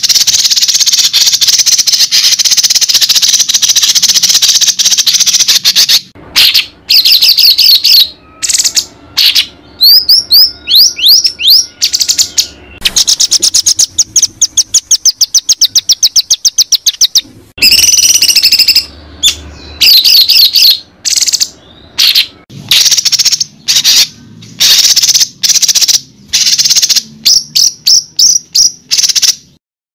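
Songbird tutor song for training white-rumped shamas: loud, varied bird song. It opens with several seconds of dense, buzzy chattering, then short trills and sweeping whistles. A fast run of repeated ticking notes follows in the middle, and then bursts of chatter separated by brief pauses.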